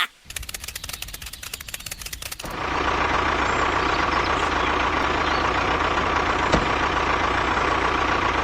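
Tractor engine cranking with a fast, even clatter for about two seconds, then catching and running steadily.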